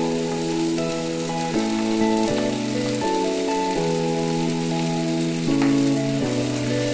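Background music of sustained chords changing every second or so, over a steady sizzle of food frying in oil.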